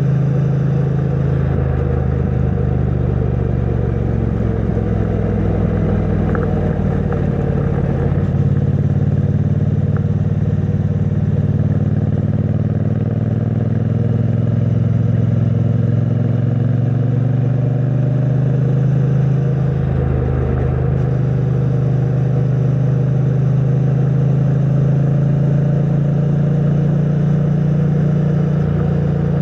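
A 2022 Triumph Bonneville T100's 900 cc parallel-twin engine running through its stock exhaust while riding, with air rushing past. The engine note climbs slowly through the middle as it pulls, changes about eight seconds in, and breaks briefly about twenty seconds in before settling back to a steady cruise.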